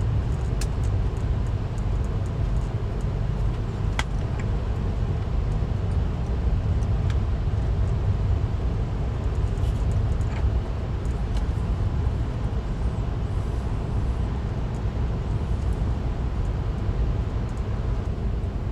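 Steady low rumble of a VIA Rail passenger train running along the track, with a few sharp clicks over it, the clearest about four seconds in.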